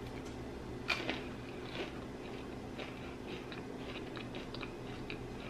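A crunch as a bite tears through toasted sourdough bread about a second in, followed by quiet chewing with small crackles and clicks.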